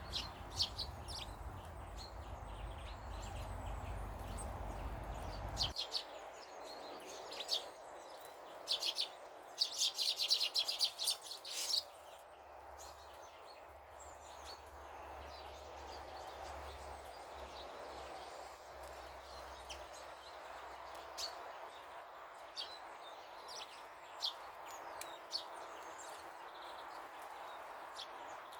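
Small garden birds chirping on and off, with a dense flurry of rapid chirps about ten seconds in, over a steady background hum.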